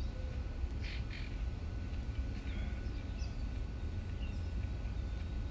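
Wind rumbling on the microphone, with small birds chirping faintly now and then.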